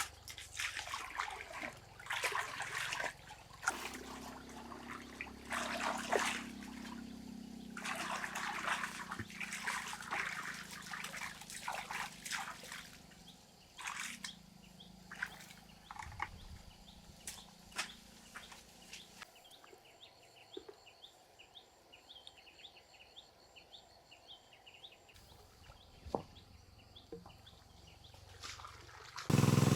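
Water splashing, sloshing and trickling in many short irregular bursts, with a low steady hum underneath for a while. It quietens for the last several seconds, leaving faint rapid high ticking.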